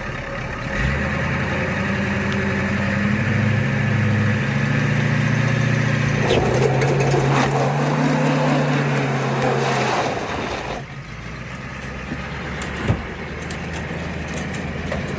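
Truck engine revving under load as the truck tries to climb out of the snow, its pitch stepping up a few times. A rough rushing noise joins about six seconds in, and both fall away about eleven seconds in to a lower steady run.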